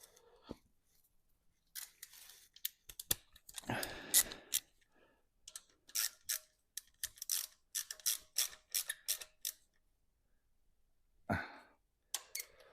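Hand tools and metal engine parts clicking and knocking as parts are fitted to a Mini engine, with a run of quick sharp clicks in the middle. There are two short scraping sounds, one about four seconds in and one near the end.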